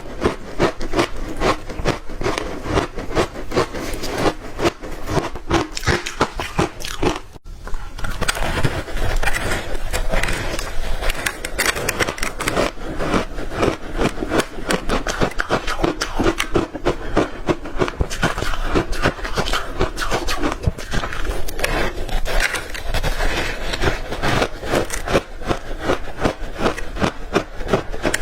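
Close-up biting and chewing of crunchy ice chunks loaded with matcha powder: rapid, continuous crunching and grinding, with a brief break about seven seconds in.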